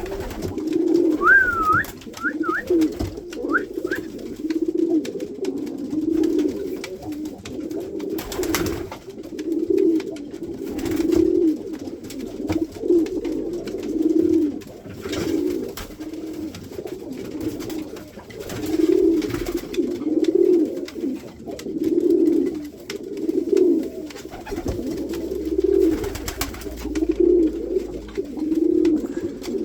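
Pakistani domestic pigeons cooing, low coos repeating about once a second or a little slower. A few short, high rising chirps come in the first few seconds, and faint brief clicks are scattered through.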